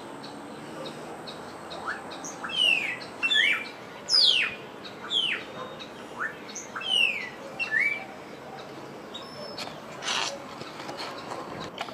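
A bird singing a run of loud, sharp whistled notes that fall steeply in pitch, some ending with a short upturn, about eight of them over five seconds. A brief harsh, noisy call or rustle follows near the end, over a steady background hiss.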